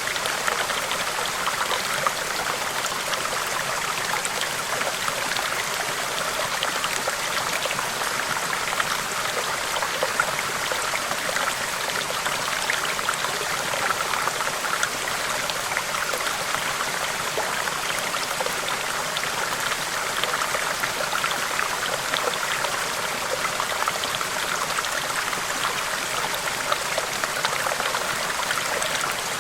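A river's water rushing steadily, an even wash of flowing water with fine splashing throughout.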